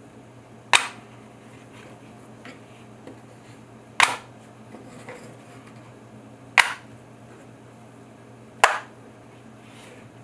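Four sharp clicks, a few seconds apart, of neodymium magnets in 3D-printed resin segments snapping together as the segmented ellipsoid is assembled.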